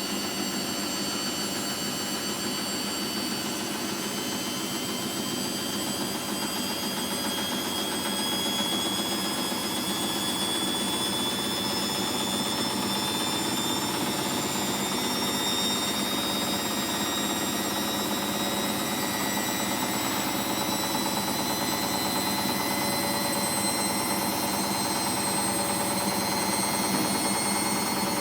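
Hoover DXA 48W3/1-80 washing machine spinning, its drive belt freshly repaired; a steady whine that climbs slowly in pitch as the drum picks up speed.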